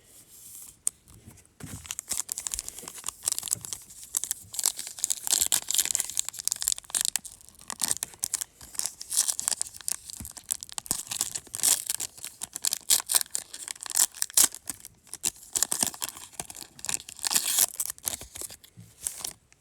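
Plastic wrapping of a sealed trading-card mega box and its packs being torn open and crinkled by hand: a long run of irregular tearing and crackling.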